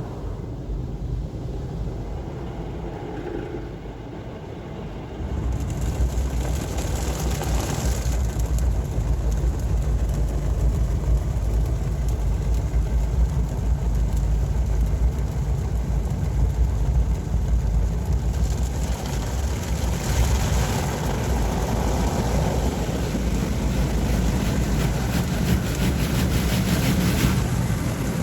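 Istobal MNEX 22 soft-touch car wash at work: its machinery gives a steady low rumble, and about five seconds in it grows louder as a broad hiss joins in and stays.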